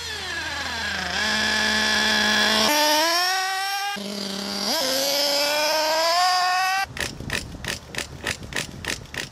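Radio-controlled car's motor running at high pitch. Its tone falls, holds, then steps up and climbs again as the throttle changes. Near the end it gives way to a series of short, sharp pops or knocks, about three or four a second.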